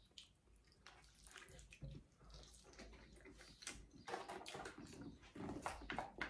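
Faint wet chewing and mouth sounds from eating cheesy enchiladas, with small clicks and scrapes of a plastic fork in a foil pan.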